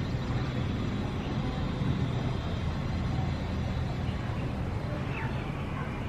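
City traffic ambience: a steady rumble of passing vehicles, with a few faint bird chirps above it, one about five seconds in.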